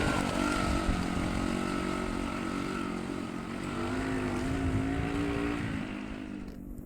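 Small Chinese Honda-clone four-stroke minibike engine running under way. Its pitch dips, rises again, and then fades out near the end.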